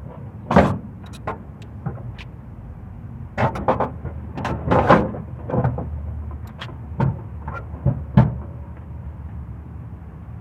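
A series of irregular heavy clunks and knocks, several close together in the middle, over a steady low engine hum.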